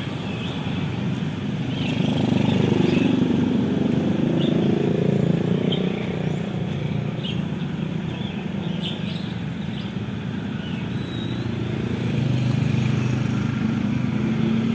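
Road traffic, mostly motorcycles and cars, passing by. Their engine sound swells about two seconds in and again near the end.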